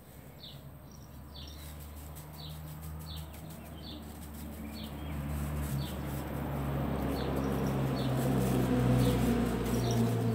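Short, falling bird chirps repeated every second or so, over a low steady hum that grows gradually louder through the second half.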